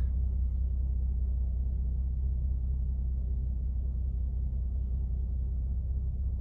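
Mercedes-AMG C43's twin-turbo V6 idling steadily shortly after start-up, heard from inside the cabin as a low rumble.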